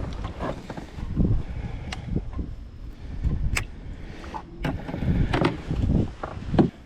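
Irregular knocks, clicks and low rumbling handling noise in a fishing kayak while a hooked bass is fought and brought aboard.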